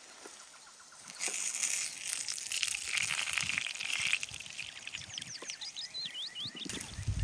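Rustling hiss, like wind through leaves, starting about a second in. A quick run of short, high bird chirps follows later on.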